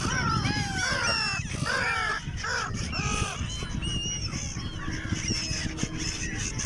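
A flock of gulls calling over one another: many short calls that rise and fall in pitch, thickest in the first half and thinning out later, over a steady low rumble.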